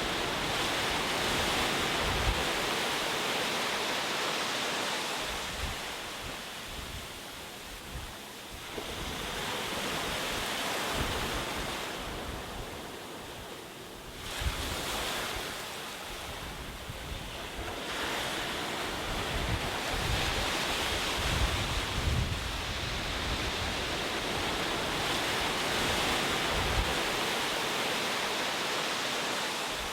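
Ocean surf: waves breaking and washing ashore, the rushing noise swelling and falling back every several seconds, with gusts of wind rumbling on the microphone.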